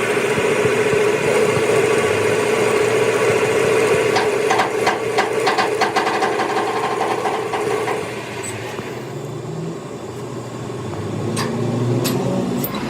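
Metal lathe running with a steady whine, a rapid clatter of ticks in the middle, then running lower and quieter for the last few seconds with a few sharp clicks near the end.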